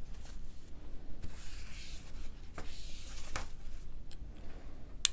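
Soft rubbing as the prism of a handheld refractometer is wiped clean, with a few light clicks and one sharp click near the end.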